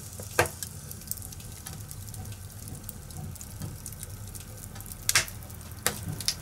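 Fire crackling steadily with many small ticks over a low rumble. Louder sharp pops come about half a second in and again near the end.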